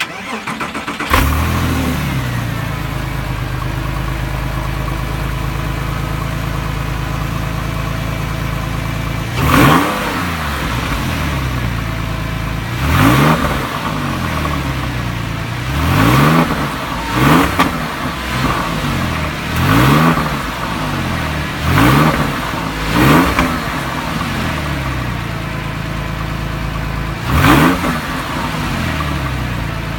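Porsche engine and exhaust starting up, flaring about a second in, then idling steadily. It is blipped about eight times, each a quick rise and fall in pitch, with the blips clustered in the second half.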